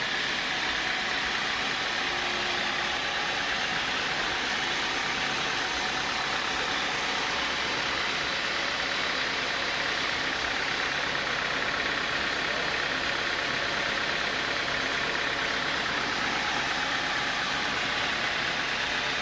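Sawmill saw running steadily: a constant, even mechanical noise with a strong hiss and no breaks.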